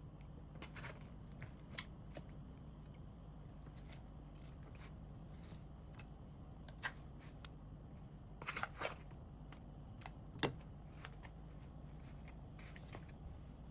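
Scattered light clicks and taps of kitchen utensils and dishes being handled during food preparation, over a low steady hum. A quick cluster of clicks comes a little past the middle, and a sharper tap comes near the end.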